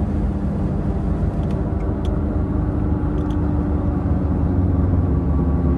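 Infiniti G37's 3.7-litre VQ37 V6 with a loud aftermarket exhaust, droning at a fairly steady pace while driving.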